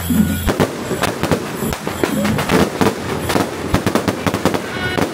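Firecrackers going off in a dense, irregular run of sharp cracks.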